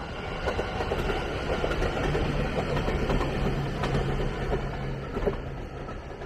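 Nagano Electric Railway Snow Monkey limited express, a former Narita Express electric train, running past on the rails. Wheel-and-rail rumble swells and then eases, with a steady low hum through the middle.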